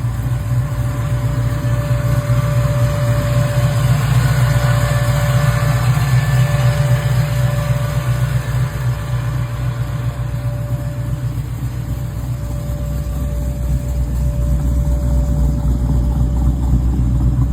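1966 Chevrolet Chevelle's high-output engine, built to about 685 horsepower, idling steadily.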